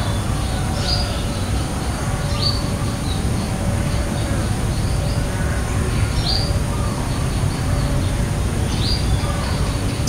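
A small bird chirping four times, each a short quick falling note, spaced unevenly, over a steady low rumble.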